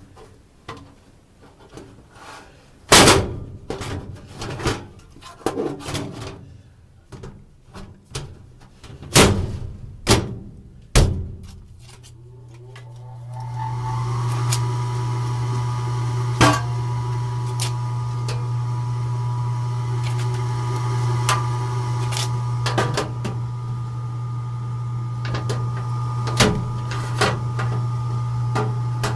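Knocks, clicks and rattles of a furnace filter and cabinet being handled, then about twelve seconds in the furnace blower motor starts, swelling up over a couple of seconds into a steady hum that runs on with a few clicks over it.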